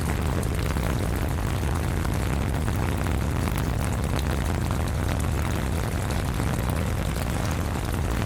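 Steady heavy rain with a low rumble, with many small drops ticking on an umbrella.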